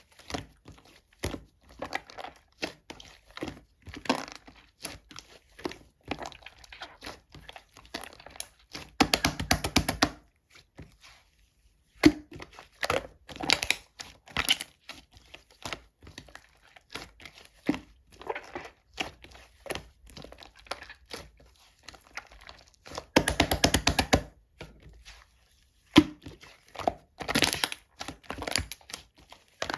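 Two-layer slime being squeezed, stretched and pressed by hand: irregular sticky crackles, clicks and pops, with two runs of rapid clicking about nine and twenty-three seconds in.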